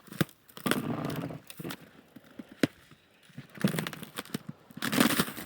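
Footsteps crunching on a thin layer of snow over a crust of ice, about three steps with short sharp clicks between them.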